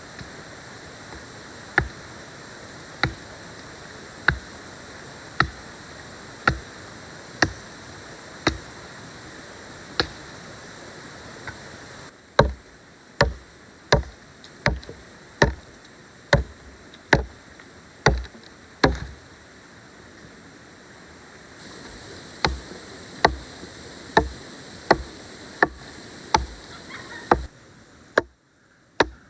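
Repeated chopping strikes of a blade into wood, sharp single blows at about one a second, a little faster for a stretch in the middle, with a short pause of a couple of seconds, over a steady background hiss.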